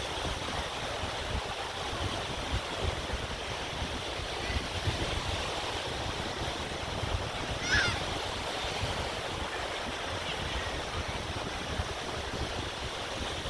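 Surf washing on the beach and wind buffeting the microphone, with a short high-pitched cry about eight seconds in.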